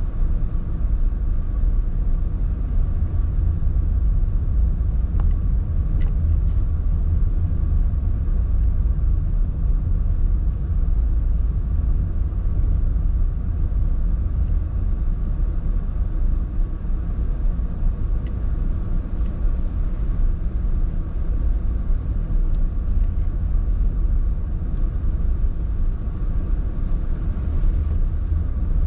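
Honda N-BOX kei car driving along, its engine and tyres making a steady low road rumble that holds an even level throughout.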